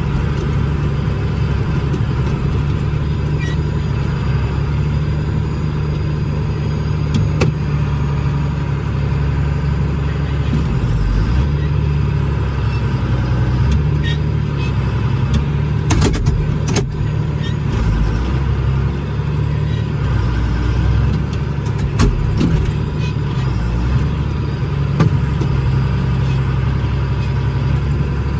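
Farm tractor engine running steadily under load, a continuous low drone, with a few sharp clicks and rattles over it.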